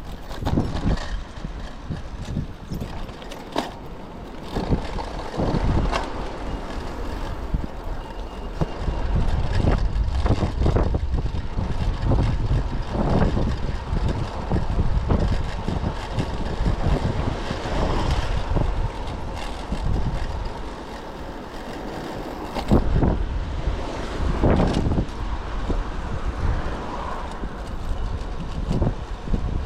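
Typhoon wind buffeting the microphone in irregular gusts, a heavy low rumble that swells and drops every second or two.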